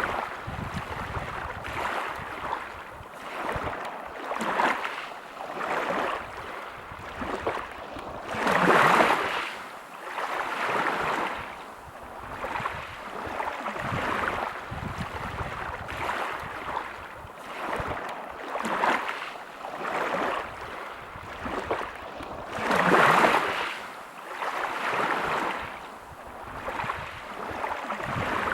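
Waves breaking on a pebble beach, swelling and falling back every second or two. Two bigger waves come in, one near the middle and one near the end.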